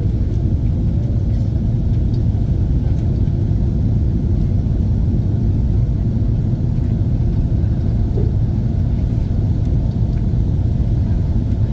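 Steady low rumble of a Boeing 777-300's engines and airflow heard inside the passenger cabin.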